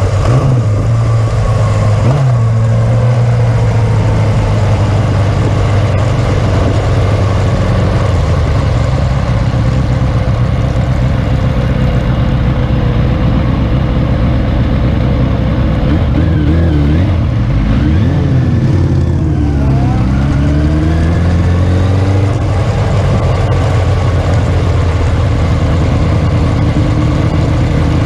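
Classic superbike racing motorcycle engines running loudly in a steady low drone. Around the middle, several engine notes rise and fall in pitch as bikes rev or go past.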